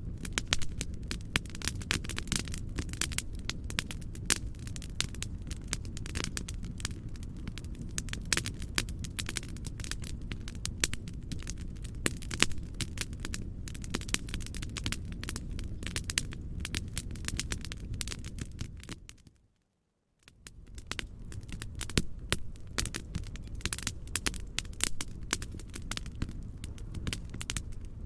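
Wood fire crackling, with many irregular sharp pops over a steady low rumble. About 19 s in, it fades to silence for under a second and then fades back in.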